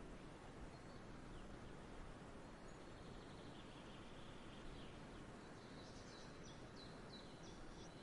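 Faint outdoor ambience: a soft steady hiss with small birds chirping faintly, a quick run of high chirps in the second half.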